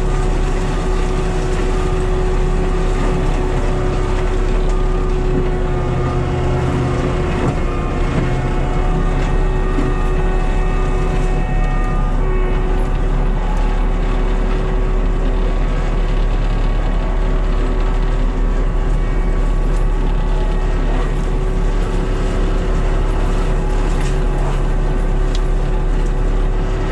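Cat skid steer running at steady high revs with its hydraulic brush-cutter mulching head spinning, a constant engine hum with a steady whine over it.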